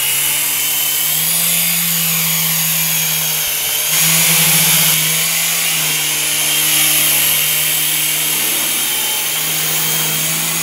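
Electric motors and rotors of a Protocol Tigerjet three-channel RC toy helicopter running in flight: a steady hum with a high whine. The pitch shifts a little about a second in and again about four seconds in as the rotor speed changes.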